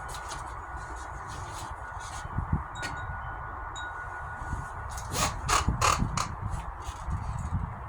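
Wind chime ringing in a breeze: a held tone and scattered light strikes, then a quick cluster of louder strikes about five to six seconds in. Wind rumbles on the microphone underneath.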